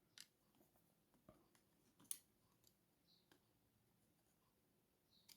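Near silence with a few faint, sharp clicks, the clearest about two seconds in.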